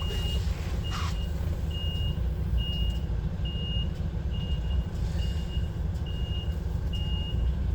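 Lorry's reversing alarm beeping steadily, about nine short high beeps spaced a little under a second apart, over the low rumble of the HGV's idling diesel engine as it backs into a parking space.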